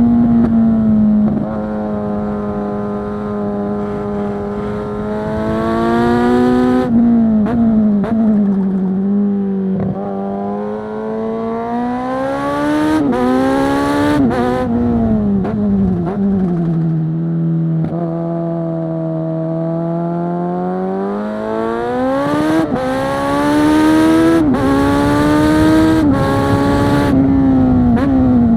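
Kawasaki Z900 SE inline-four engine through a Zard full-system exhaust, ridden hard and heard from on the bike. The revs climb and then drop sharply several times as it shifts through the gears, hold lower and steady for a while in the middle, then climb again through more shifts. Wind hiss rises during the harder pulls.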